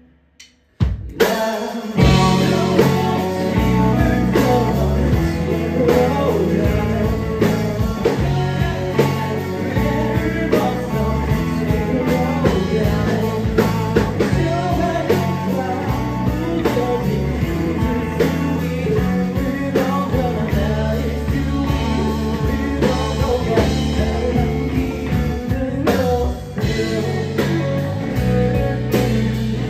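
A rock band playing with electric guitar and drums. The music drops out for about a second at the start, then comes back in full and runs without transcribed lyrics.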